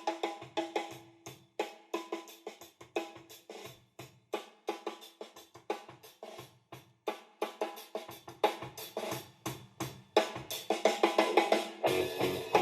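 Recorded music played through a small Pow Mo portable Bluetooth speaker: a drum-kit groove with snare and hi-hat on a steady beat, the fuller band coming in about ten seconds in.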